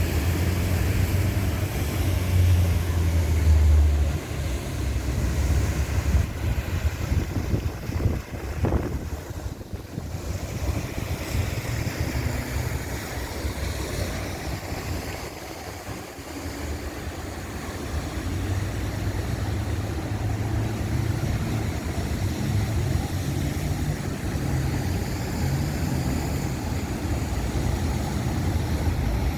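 Outdoor street noise on a busy boulevard: passing traffic and wind buffeting the microphone, with strong low rumbling in the first few seconds.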